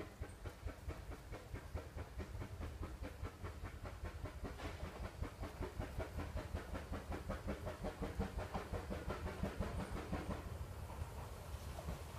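Vale of Rheidol narrow-gauge steam train running past, its fast, even rhythm of beats over a low rumble growing loudest midway and fading about ten seconds in, with a brief hiss about four seconds in.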